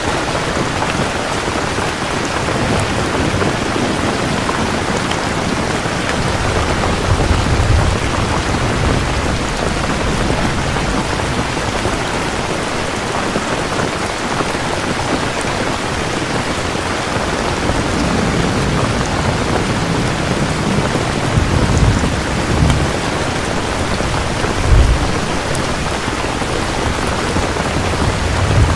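Steady heavy rain with rumbles of thunder: a low roll about a quarter of the way in and more rolling rumbles in the last third, the sharpest a short crack of thunder near the end.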